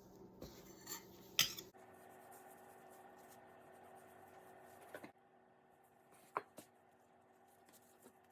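Faint kitchen handling sounds: a few light clicks and knocks of utensils against dishes over a low steady hum, the sharpest about a second and a half in and another a little past six seconds.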